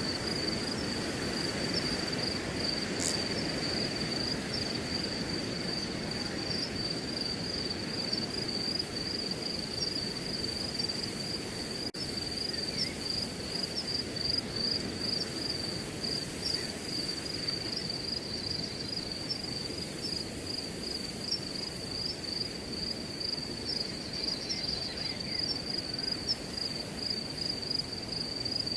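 Crickets chirping in an unbroken high-pitched trill over a steady low rush of wind through grass.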